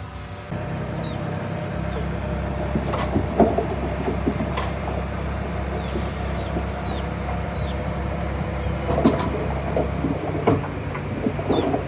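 Diesel engine of heavy earthmoving machinery running steadily. Irregular sharp knocks and clanks sound over it, a few of them louder, about a third of the way in and again near three quarters through.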